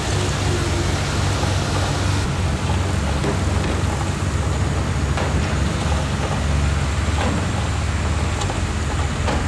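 Heavy construction machine's diesel engine running steadily with a low drone, with a few faint knocks over it.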